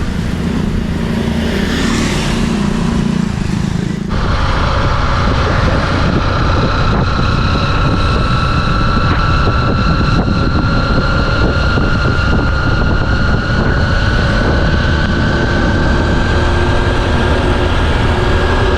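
Honda XR150's single-cylinder engine running as the motorbike is ridden, with road and wind noise. About four seconds in the sound changes abruptly, then a steady whine rises slowly in pitch.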